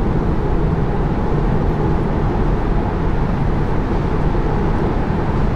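Steady road and tyre noise heard inside a Tesla Model 3's cabin while it drives on a rain-wet road, with no engine sound since the car is electric.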